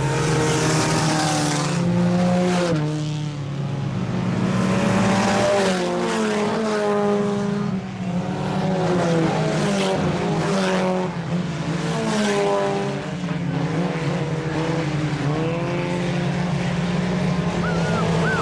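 A field of IMCA Sport Compact race cars, four-cylinder compacts, running at race pace. Several engines overlap, their pitch rising and falling again and again as the cars accelerate and lift around the track.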